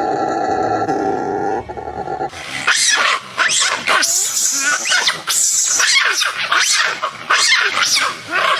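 Monkey calls: a low, steady growl for about the first two seconds, then a rapid series of shrill squeals and chirps that sweep up and down in pitch.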